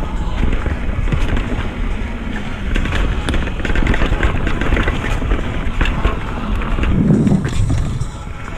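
Mountain bike rolling fast down a dirt trail: tyres on the ground, with the bike rattling and clattering over bumps, and a heavy rumble of wind on the microphone.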